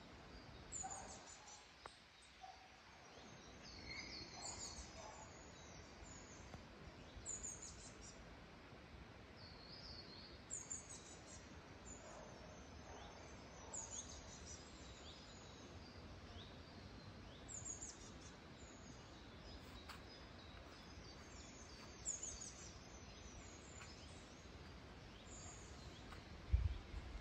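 Small birds singing: short, high, falling chirps repeated every second or so over a faint steady hiss, with a low thump near the end.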